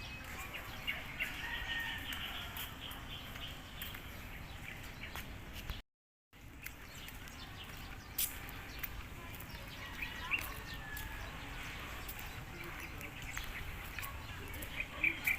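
Birds chirping and calling on and off over a steady outdoor background, with the sound cutting out briefly about six seconds in.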